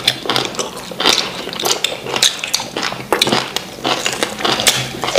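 Close-miked eating sounds: wet chewing, lip-smacking and quick irregular crunchy clicks as people bite and chew meat with fufu and ogbono soup.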